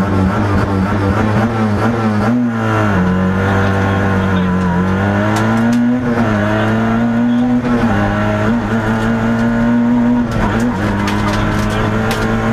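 Peugeot 106 XSi rally car's four-cylinder engine, heard from inside the cockpit, running at high revs as the car launches from the stage start and accelerates hard, the pitch dropping at several gear changes.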